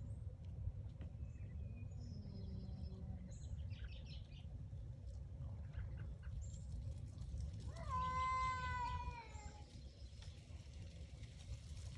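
A cat gives one long yowl about eight seconds in, lasting under two seconds and sliding slightly down in pitch at the end. Faint short chirps come earlier over a steady low rumble.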